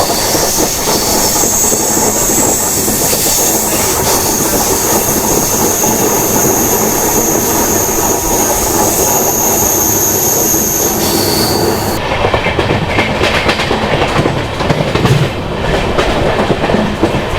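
LHB passenger train running at speed, about 85 to 90 km/h, with wheels clattering on the rails under a steady high whine. About twelve seconds in, the whine stops and the sound turns to quick, sharp clicking.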